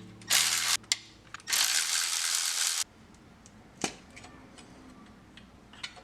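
Tool and handling noises during exhaust work under a car: two bursts of rushing, hissing noise, the second lasting over a second, then a few light metallic clicks and knocks.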